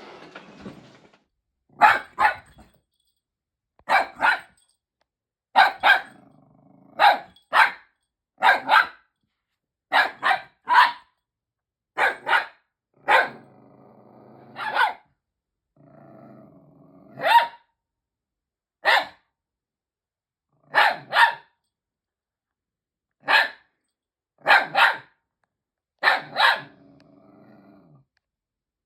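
A dog barking over and over, short sharp barks singly or in quick pairs every second or two, with quieter low sounds between some of them.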